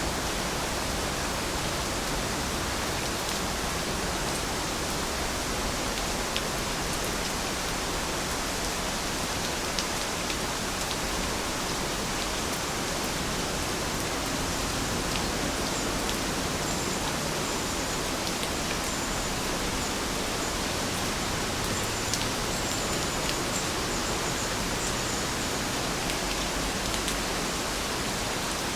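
Heavy rain falling steadily, an even hiss with scattered sharper drop ticks. Faint high chirps come and go in the second half.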